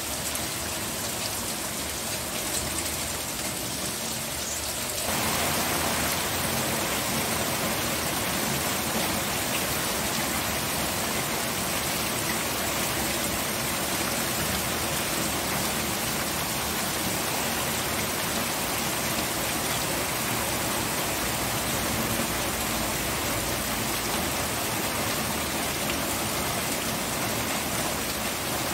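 Steady rain falling, a dense even hiss that gets heavier and fuller about five seconds in.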